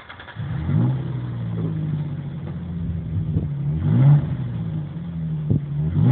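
Ford Ranger FX4's 4.0-litre V6 on its stock exhaust starting and settling into idle, then revved twice: at about four seconds and again near the end.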